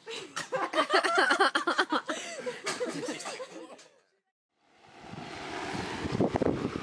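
A toddler laughing in a run of quick, high-pitched giggles that cut off suddenly about four seconds in. After a brief silence comes a steady hiss with a faint voice.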